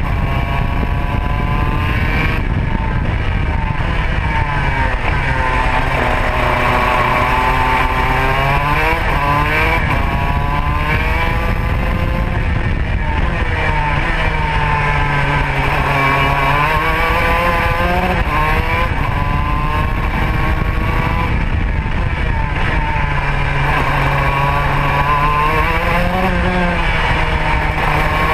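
Racing kart's Modena two-stroke engine running hard, heard onboard: its pitch drops in long sweeps and climbs back up again, about three times, as the revs fall off and build back up through the laps.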